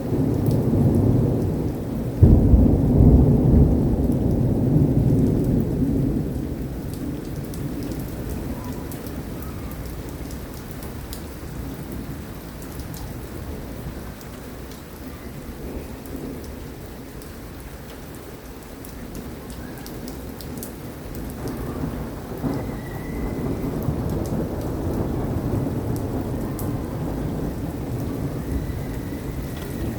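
Thunder over steady rain. A sharp clap about two seconds in rolls off over several seconds, and a second rumble builds from about twenty-one seconds on.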